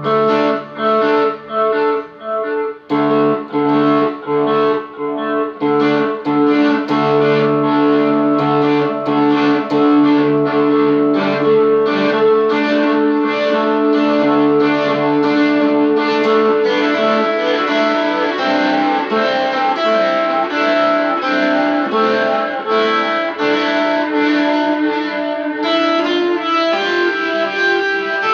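Electric guitar playing a rock solo through effects, picked notes at a steady pulse of about two a second over held, ringing tones.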